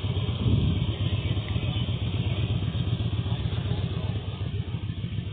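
Car engine running close by with a steady low rumble, swelling slightly about half a second in.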